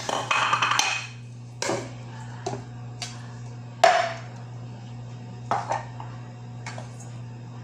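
A whirring, blender-like noise dies away within the first second, then scattered knocks and clinks of kitchen utensils and dishes, the loudest a ringing clink about four seconds in, over a steady low hum.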